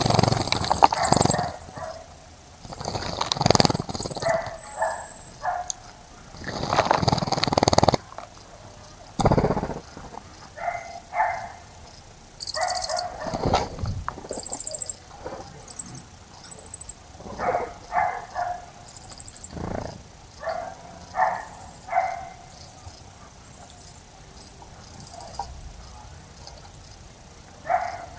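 A dog barking in short, repeated barks every second or two, with brief high bird chirps over it. Three longer, louder rushes of noise come in the first eight seconds.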